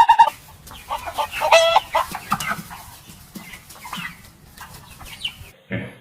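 Chickens clucking, a scatter of short calls with one louder drawn-out call about a second and a half in. A short rapid pulsing call cuts off at the very start, and a few low, spaced calls from a different animal begin near the end.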